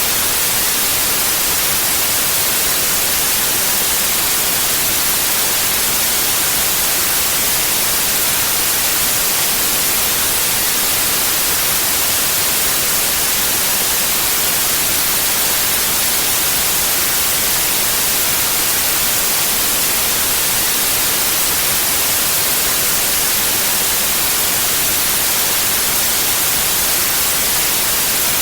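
Steady, unchanging white noise: an even hiss with most of its energy in the treble.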